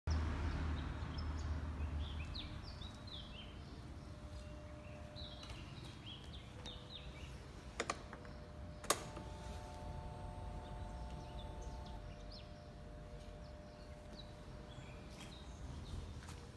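Small birds chirping repeatedly over a faint low rumble that fades away in the first two seconds, with two sharp clicks about eight and nine seconds in.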